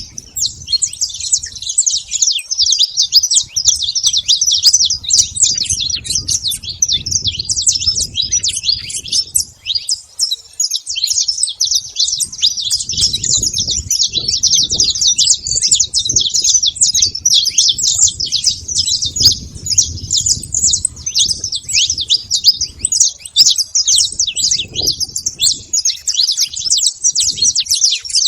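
A flock of saffron finches chirping and calling all at once in a dense, unbroken chatter. A low rumble comes and goes underneath.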